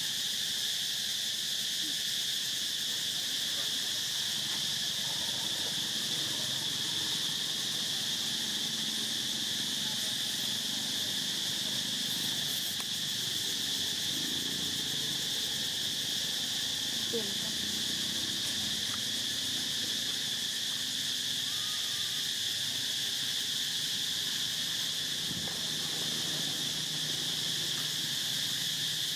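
Insects giving a steady, unbroken high-pitched drone.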